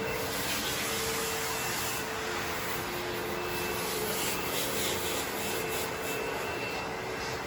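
Carpet-cleaning machine running steadily, its suction motor giving a constant rushing noise with a steady whine.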